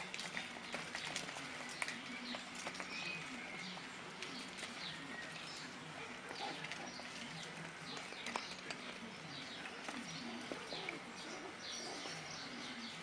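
Small birds chirping repeatedly in the background, many short high chirps, with a few light taps.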